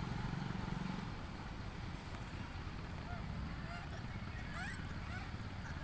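Several short, faint squeaky animal calls that glide in pitch, over steady outdoor background noise; a low engine hum fades out in the first second.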